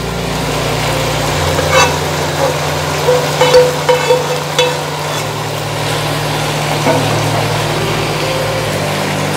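Chicken jalfrezi sizzling in a wok as cubes of omelette are tipped in, with a few light clicks of pan and utensil against the wok. A steady low hum runs underneath.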